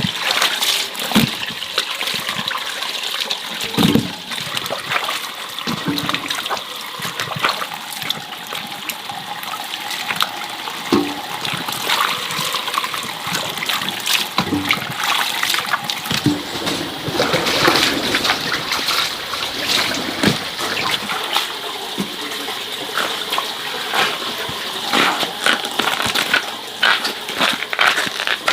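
Water splashing and trickling, with irregular knocks and clatters throughout.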